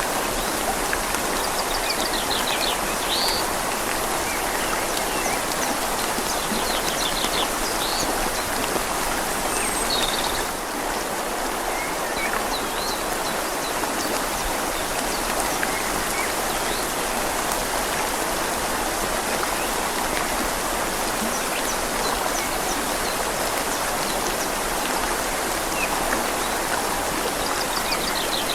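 Steady rain falling on leaves, mixed with a river flowing gently, as an even hiss of water.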